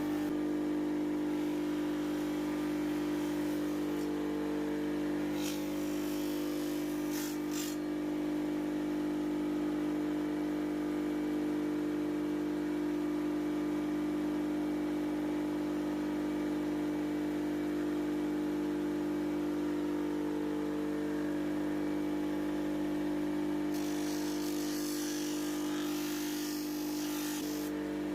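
Electric grinder motor running at a steady pitch. Twice, for a few seconds each, a high grinding hiss rises over it as the steel axe head is pressed to the abrasive.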